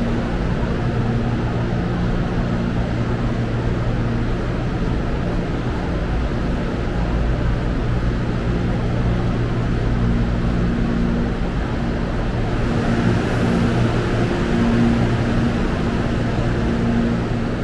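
Electric commuter train at a station platform, a steady low mechanical hum with noise over it that swells a little past the middle.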